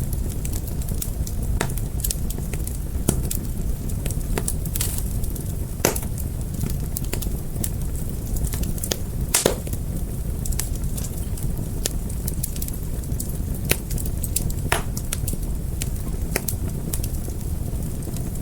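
Wood fire crackling: frequent sharp pops and snaps at irregular moments over a steady low rumble of burning.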